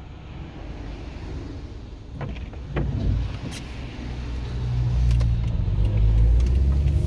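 Car running with a low rumble that grows louder from about four seconds in, after a few short knocks.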